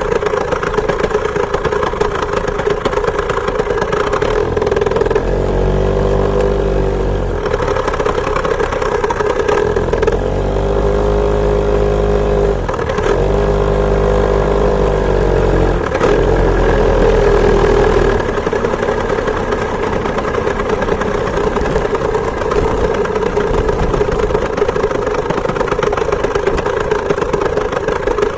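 Two-stroke chainsaw engine driving a homemade moped, running under way, its pitch rising and falling with the throttle several times between about five and eighteen seconds in.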